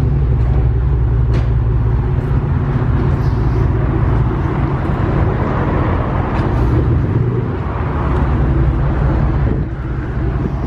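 2008 Chevrolet Impala SS's 5.3-litre LS4 V8 idling steadily through a freshly straight-piped exhaust with the mufflers deleted, a low, even drone.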